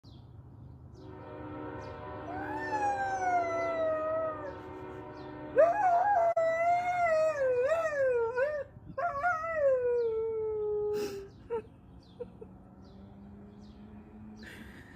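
Husky howling in three long howls. The first rises and then falls, the second wobbles up and down in pitch, and the last slides down and ends about eleven seconds in.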